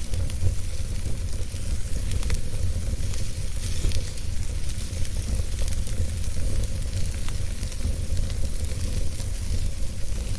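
Wood fire burning in a fireplace: a steady low rumble and hiss of the flames, with scattered sharp crackles and pops from the burning logs.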